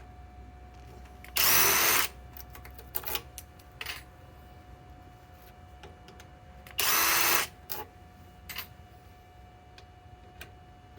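SKIL PWR CORE 20 impact driver running in two short bursts, about a second in and again past the middle, as it backs out fasteners. Light clicks sound between the bursts.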